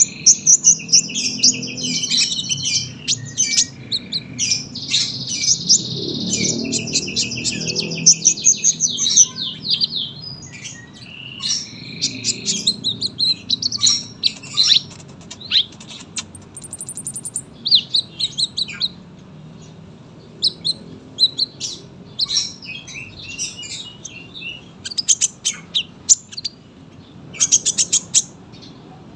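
Olive-backed sunbird (kolibri ninja) singing a long run of rapid, high chirps and trills, dense for about the first ten seconds, then in shorter, scattered phrases with a quick ticking run near the middle.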